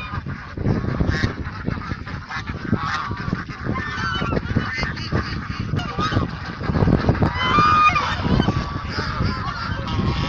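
Egyptian geese honking, several birds calling over one another in a loud, continuous chorus of raucous honks, densest about three-quarters of the way through.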